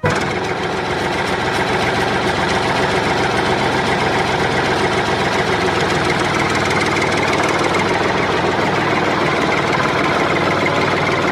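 A dump truck's engine running steadily with a fast, even pulse. It starts abruptly and cuts off suddenly.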